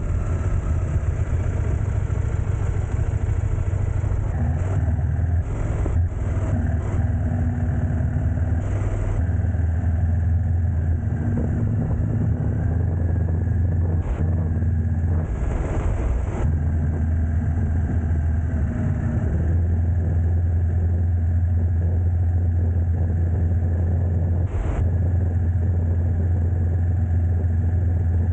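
A vehicle's engine running steadily with a low hum and road noise, as while driving, with a few brief knocks along the way.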